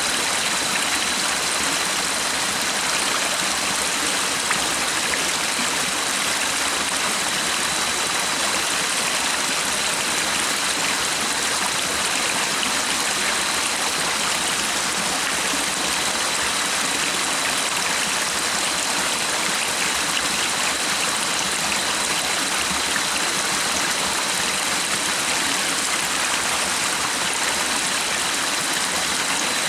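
A stream running steadily, an even rushing of flowing water with no breaks, and a faint high steady tone above it.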